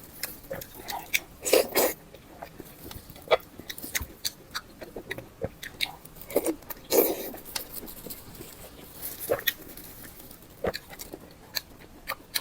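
Close-miked eating: a person biting and chewing food, with many short wet mouth clicks. Louder, fuller bites come about one and a half seconds and seven seconds in.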